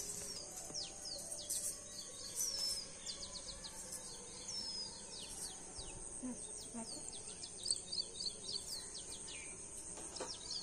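Small birds chirping outdoors: many short, quick falling chirps scattered all through, over a steady high hiss.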